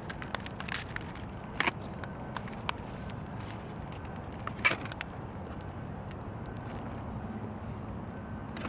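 Wood fire in a fire stand crackling, with scattered sharp pops, the loudest about one and a half and four and a half seconds in, over a low steady rumble.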